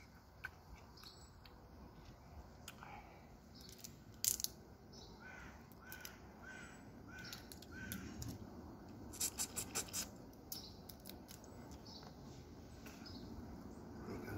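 A bird calling five times in quick succession, short even notes about half a second apart. Around it come sharp cracks and clicks of crab shell being broken apart by hand and eaten, with a quick run of them about nine seconds in.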